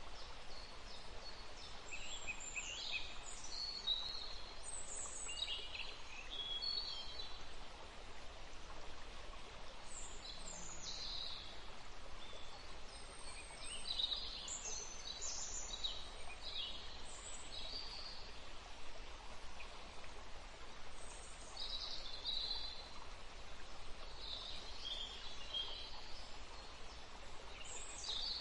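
Small birds chirping in short, scattered calls over a steady background hiss.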